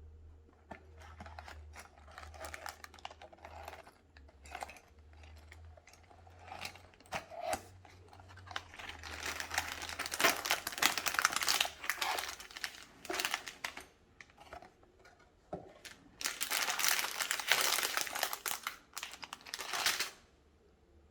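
Packaging crinkling and tearing as a LEGO set is unboxed by hand, likely the thin plastic parts bags, in bouts with short pauses and scattered clicks.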